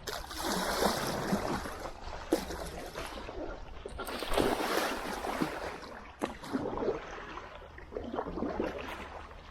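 Water sloshing and splashing in repeated surges, roughly every two seconds, with a few sharp knocks between them.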